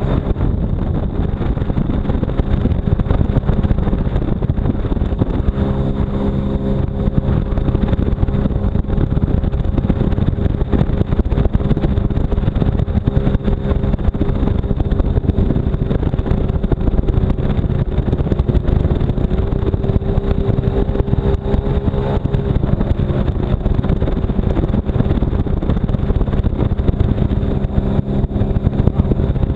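A brand-new jet ski's engine running steadily under way, with water and wind noise. The engine note comes through more clearly from about six seconds in and rises a little near the middle.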